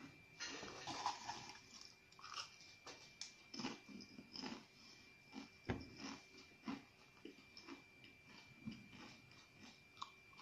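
Potato chips being chewed close to the microphone: quiet, irregular crunches and mouth sounds. A faint steady high tone runs underneath.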